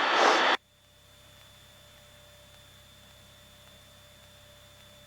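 Cessna 152 cabin noise on the headset audio feed, cutting off suddenly about half a second in. After that only a faint steady electronic hum with thin steady tones remains.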